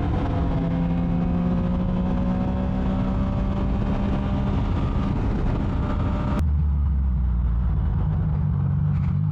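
Motorcycle engine running at a steady speed under wind rush. About six seconds in, the sound changes abruptly to a steady low engine drone with the wind noise gone.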